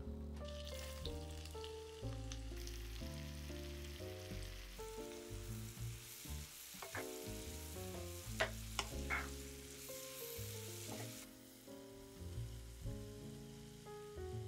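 Food frying in a pan with a steady sizzle, a spatula knocking against the pan a few times around the middle; the sizzle drops off about three-quarters of the way through. Soft background music with a stepping bass line plays underneath.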